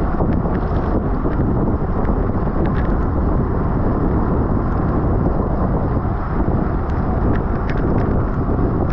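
Steady wind noise buffeting the microphone of a camera on a bicycle moving at race speed, with a few faint clicks scattered through it.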